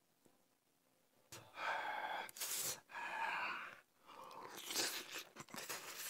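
Close-miked eating sounds: a mouthful of jjajang noodles and rice being slurped and chewed, wet mouth noises that start about a second in after near silence.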